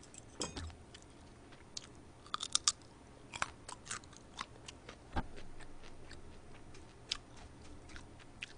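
Quiet, close-miked chewing with scattered wet mouth clicks, mixed with the crinkle and rustle of lettuce leaves being picked up and pulled apart to make a wrap.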